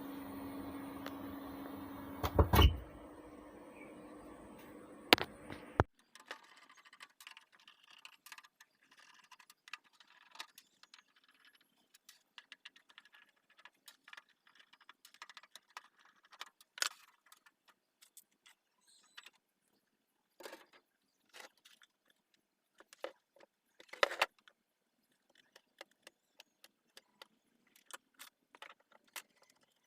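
Steady hum and hiss from the mixer running through the amplifier, with a thump about two and a half seconds in, cutting off suddenly about six seconds in as the mixer is switched off. After that, scattered small clicks and metallic taps as the mixer is being opened up.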